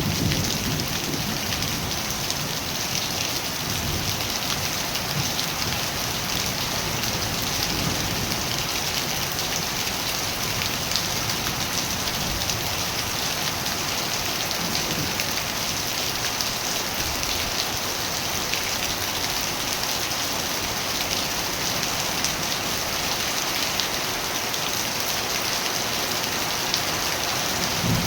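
Steady rain falling and pattering on surfaces, an even, unbroken hiss with no change in strength.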